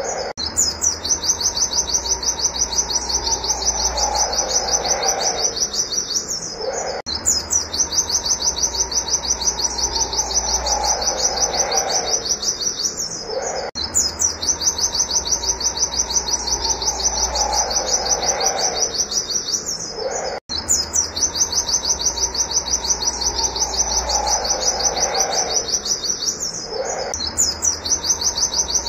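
White-eye (pleci) calling a fast, steady run of high 'wit wit' chirps, about five a second, with a brief pause every few seconds.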